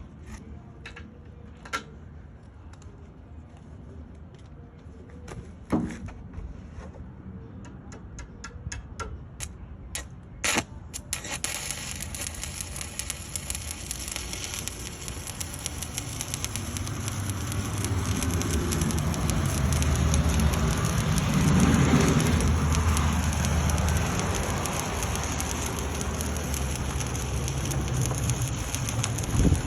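Stick-welding arc burning a 1/8-inch 7018 rod at about 124 amps, a dense, steady crackle and sizzle. It starts about a third of the way in and grows louder. Scattered sharp clicks and taps come before it.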